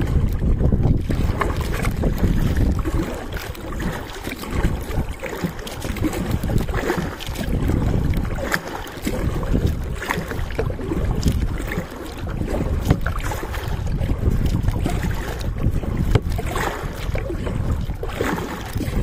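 Water splashing and lapping around a kayak, with irregular splashes every second or two, under a steady rumble of wind buffeting the microphone.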